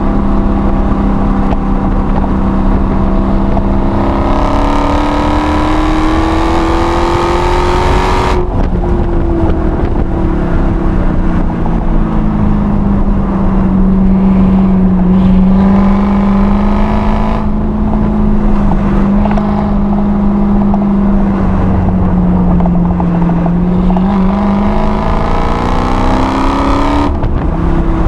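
Supercharged 6.2-litre HEMI V8 of a Dodge Challenger Hellcat, heard from inside the car at speed on a race track. The engine note climbs steadily in pitch under acceleration, then drops abruptly about eight seconds in. It holds a steady pitch with gentle swells for a while, then climbs again and drops abruptly near the end.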